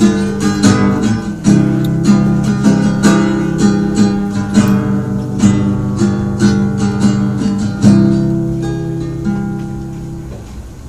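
Acoustic guitar playing an instrumental passage between verses of a slow song, chords picked and strummed in a steady rhythm. The last chord is left ringing and dies away near the end.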